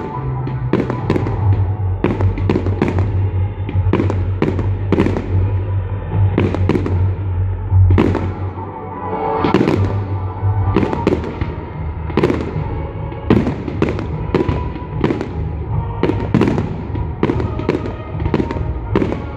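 Aerial fireworks shells bursting one after another, a quick irregular run of bangs and crackles, with music playing underneath.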